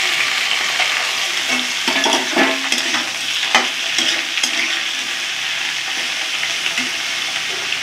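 Thinly sliced bitter gourd frying in hot oil in a metal kadhai: a steady sizzle, with a metal spatula scraping and clicking against the pan as the slices are stirred, the clicks most frequent between about one and a half and four and a half seconds in.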